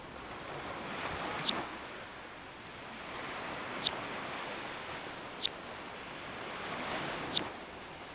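Ocean waves washing in, surging and easing every few seconds. Four short, sharp high clicks come through, about one every two seconds.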